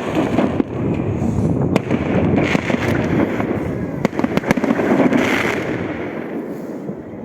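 Aerial firework shells (festival balls) bursting overhead: sharp bangs over a dense, continuous crackle that swells twice and then fades away toward the end.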